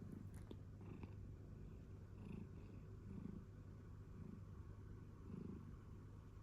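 A calico cat purring faintly, the purr swelling and fading about once a second.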